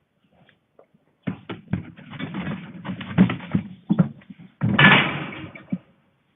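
A rapid run of knocks and thuds, with a louder burst of rushing, scraping noise about three-quarters of the way through.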